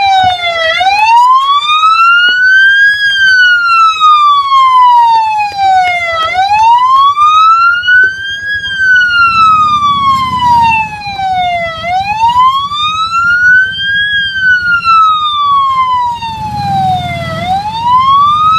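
Police car siren wailing, its pitch slowly rising and falling in cycles of about five and a half seconds, about three times over. A low rumble sounds beneath it twice, near the middle and near the end.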